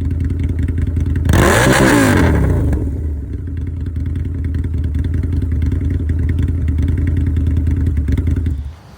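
2006 Harley-Davidson Night Rod's liquid-cooled V-twin idling through a Danmoto Highwayman 2-into-1 aftermarket full exhaust. About a second in it is revved once, rising and falling back to idle. The sound cuts off suddenly near the end.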